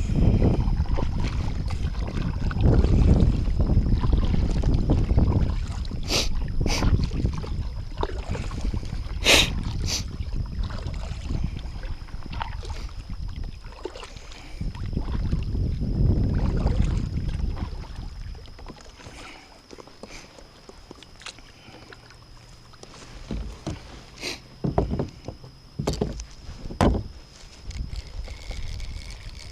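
Wind rumbling on the microphone aboard a kayak on open water, heavy for the first two-thirds and then easing off. A handful of sharp knocks on the kayak come in pairs, a few near the middle and a few more near the end.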